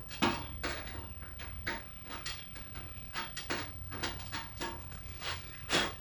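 Metal clinks and scrapes of a hand tool prying up the edge of a sheet-metal patch panel to line it up, with two louder knocks, one just after the start and one near the end.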